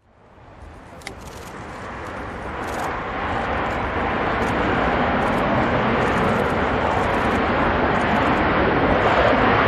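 Jet roar of an F-16 Fighting Falcon's single turbofan engine, fading in and growing steadily louder over the first four seconds, then holding steady.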